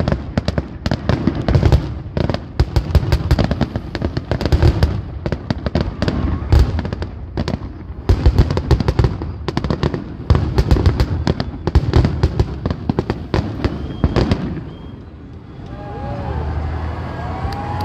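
Aerial fireworks going off in a rapid, continuous barrage of bangs and crackles, the closing barrage of a fireworks show. About fourteen seconds in the bangs stop, leaving quieter sound with a few rising-and-falling tones.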